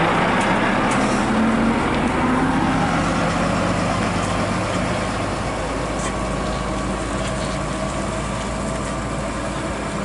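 Heavy truck's diesel engine running with road noise, its note rising briefly near the start, then slowly getting quieter.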